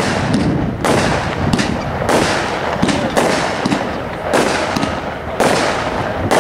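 A 500-gram consumer firework cake firing a volley of shots, sharp bangs about once a second, eight or so in all, over a continuous noisy rumble between them.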